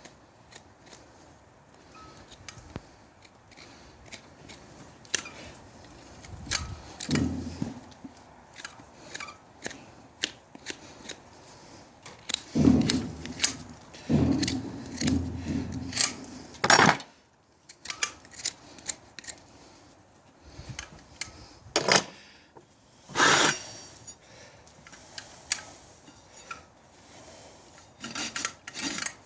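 Hoof being trimmed with hand tools: irregular scraping and cutting strokes on the horn. Heavier low thumps come about seven seconds in and again between about twelve and sixteen seconds.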